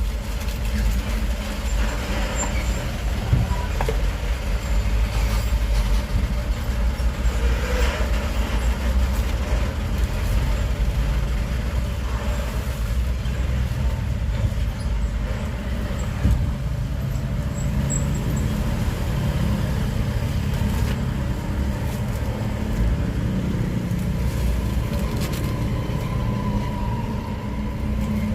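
Steady rumble of motor traffic, with engines running and passing by.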